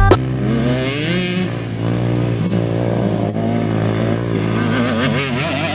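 Dirt bike engine revving up, rising in pitch over the first second or so, then running at a fairly steady pitch that wavers up and down near the end.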